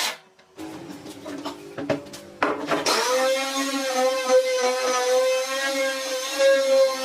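A few knocks and scraping of hand tools on wood, then from about three seconds in a steady sustained musical tone with rich overtones: background music starting.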